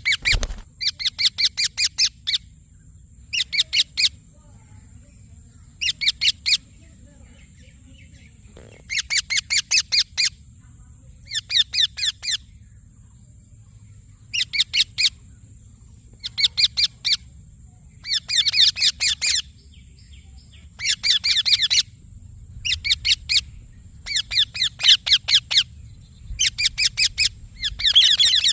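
Rose-ringed (Indian ringneck) parakeet calling in short bursts of rapid, high-pitched chirps, a new burst every second or two.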